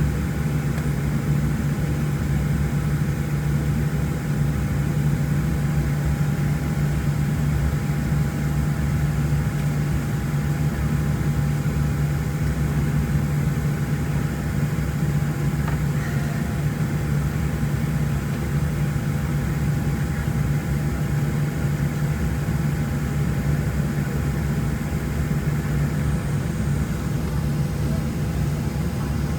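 Steady drone inside a Boeing 737-700 passenger cabin: a constant low hum with a faint steady whine above it, unchanging throughout.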